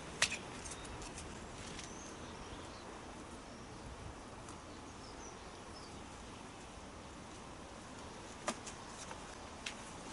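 Outdoor garden ambience: a steady background hiss with a few faint bird chirps, broken by sharp taps, one just after the start and two near the end.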